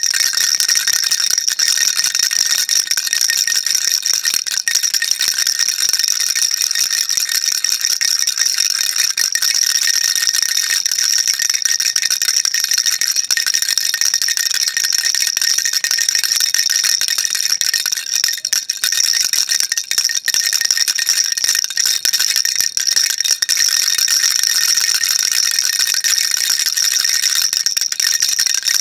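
Baby rattle shaken continuously: a dense, unbroken, high-pitched clatter with no pauses.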